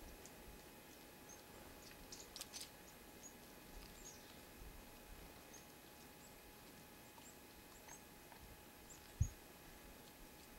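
Faint short, high chirps of small birds calling, scattered through the whole stretch, with a few sharp clicks about two seconds in and a single low thump near the end.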